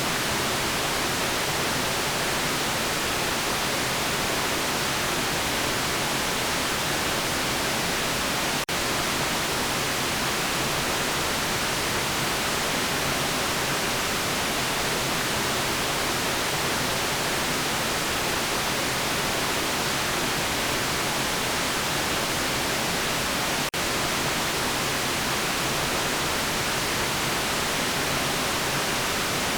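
Steady white noise: an even, unchanging hiss. It drops out for an instant twice, about nine and twenty-four seconds in.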